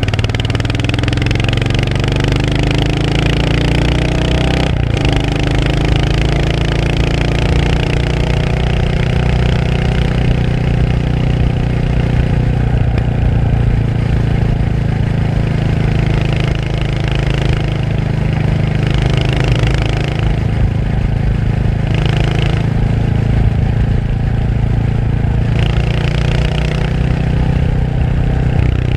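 Royal Enfield Hunter 350's single-cylinder engine running under way. Its note rises over the first five seconds, breaks off sharply about five seconds in, then settles into a steadier note that drifts up and down.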